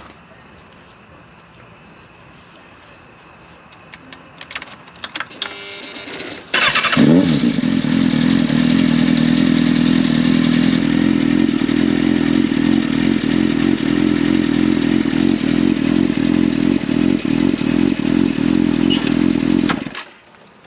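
Motorcycle engine started about six and a half seconds in, catching quickly after a brief rising whine, then idling steadily until it shuts off near the end. Before it starts there is only a faint steady hum and a few clicks.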